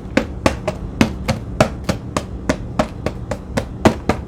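Steady run of sharp taps, about three to four a second, evenly spaced.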